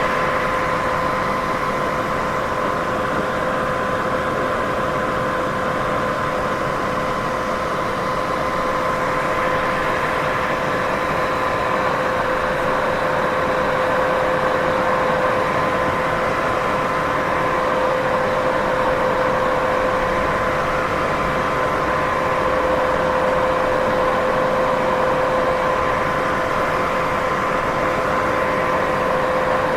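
Continuous, steady white noise, a midrange hiss with a faint constant hum running through it.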